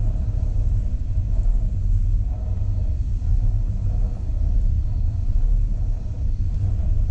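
Steady low rumble of a passenger train carriage running at speed, heard from inside the car: wheels on the track and the car body droning with no distinct rail-joint clacks.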